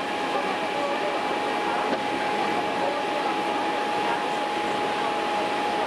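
Hankyu electric train running, heard from inside the car: a steady rolling noise with a thin, even whining tone over it.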